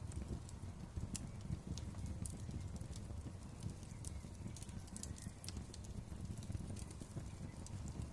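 Wood fire crackling in a fireplace: irregular sharp pops and crackles, several a second, over a low steady rumble of the flames.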